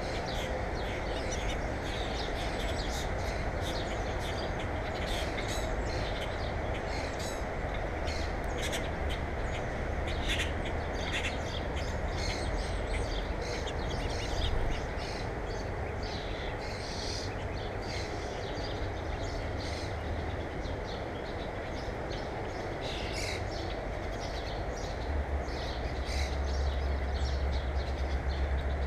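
Birds chirping: many short, high calls scattered throughout, over a steady background noise. A low rumble gets louder near the end.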